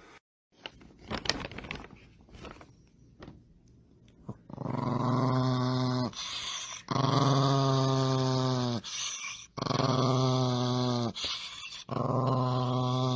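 A dog growling in four long, drawn-out growls of a second or two each, beginning about four and a half seconds in, after a few light clicks and rustles.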